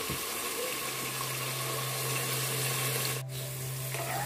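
Sliced carrots and French beans frying in hot oil: a steady sizzling hiss, with a steady low hum joining about a second in. The sound drops out for an instant about three seconds in.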